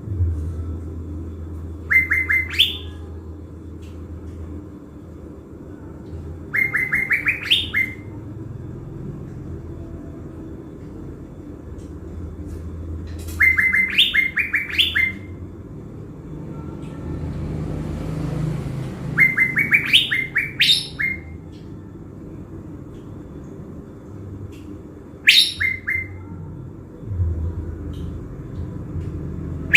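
A caged 'thanh lam' songbird, kept as a decoy for luring wild birds, calling in five short phrases about every five to six seconds. Each phrase is a quick run of sharp repeated notes that ends on a higher, rising note.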